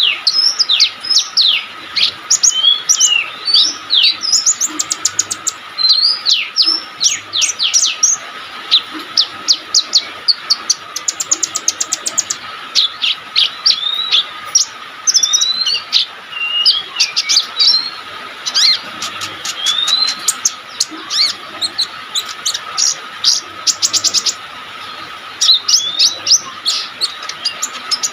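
Konin sunbird singing in full voice: a fast, almost continuous run of high, sharply sweeping chirps and rapid trills, broken by a few short pauses. A faint steady hum runs underneath.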